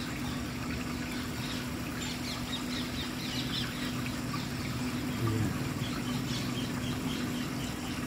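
Parrots calling in a rapid series of short, high chirps, thickest from about two seconds in, over a steady low hum.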